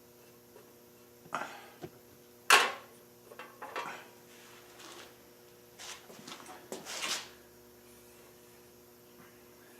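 Objects being handled and set down: a sharp knock about two and a half seconds in, with several smaller clatters and scrapes before and after it.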